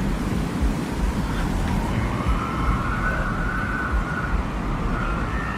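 Desert wind ambience: a heavy low rumble of wind with a faint whistling tone that rises and falls in pitch, swelling about two seconds in.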